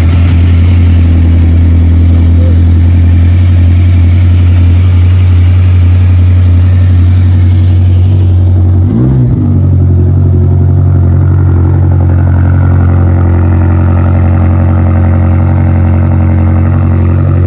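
BMW M5's twin-turbo V8 idling steadily, just after being started. It is heard first at the open engine bay, then at the quad exhaust tips, where it sounds duller. About nine seconds in, the pitch wavers briefly.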